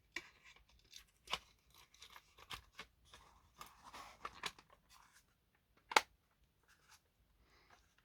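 Small plastic clicks and rustles as a model locomotive's plastic body shell is handled and pushed down onto its chassis, with one sharper, louder click about six seconds in.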